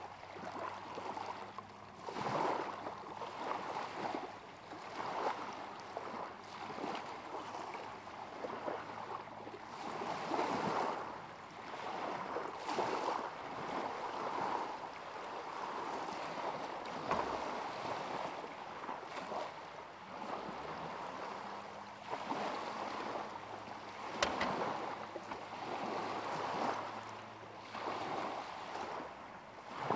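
Small waves lapping at a lakeshore, the wash swelling and fading every few seconds. A faint steady low hum runs underneath, shifting in pitch about two-thirds of the way through.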